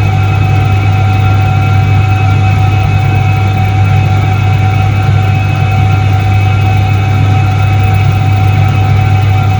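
1978 Soviet Iset-3 washing machine running: its motor gives a steady deep hum with a constant higher whine over it, unchanging throughout.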